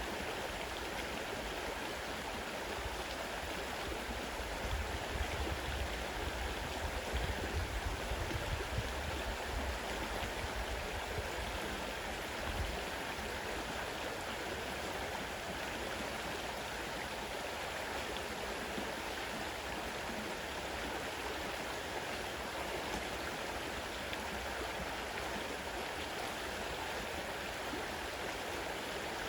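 Fast-running river water rushing steadily. A low rumble comes and goes from about four to twelve seconds in.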